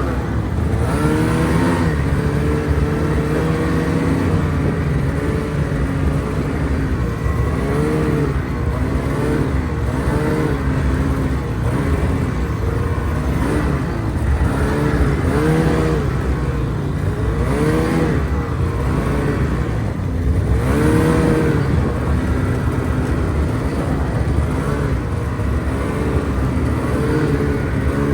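Engine of an off-road vehicle being ridden through forest, revving up and easing off over and over, with pitch rising and falling every second or two over a steady low rumble.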